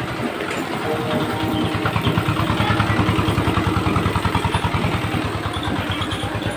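Small single-cylinder diesel engine running, with a rapid, even firing beat that grows slightly louder through the middle and then eases.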